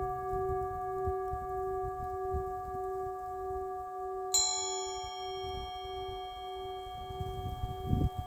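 A singing bowl ringing on with a slow, pulsing wobble in its tone, and a second bright strike about four seconds in whose high overtones ring on to the end. A low rumble sits underneath.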